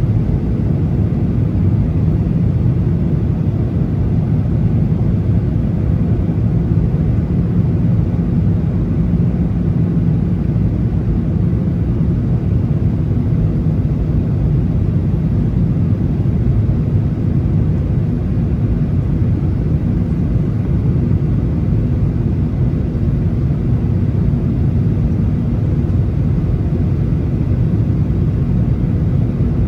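Steady low cabin rumble inside a Boeing 737: engine and airflow noise heard from a passenger seat, even throughout with no thumps or changes.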